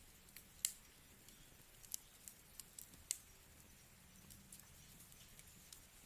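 Wood fire burning with a faint hiss and irregular sharp crackles and pops from the logs, the loudest about half a second in.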